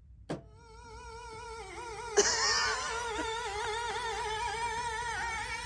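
A single held synthesizer note with its pitch wobbling quickly up and down from the modulation. It fades in, swells louder about two seconds in, then holds steady.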